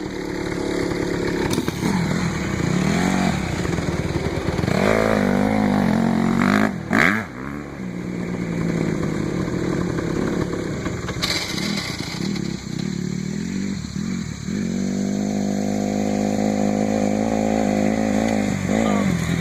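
Small off-road vehicle engine running while riding: revs rise and fall a few times in the first half, with a brief drop about seven seconds in, then hold a steady, slowly climbing pitch over the last five seconds.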